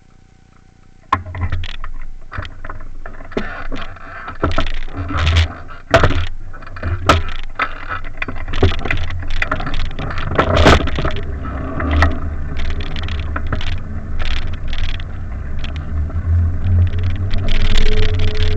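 Wind buffeting the microphone of a camera carried on a moving bicycle, a gusty low rumble with frequent clicks and rattles, starting about a second in. A brief steady tone sounds near the end.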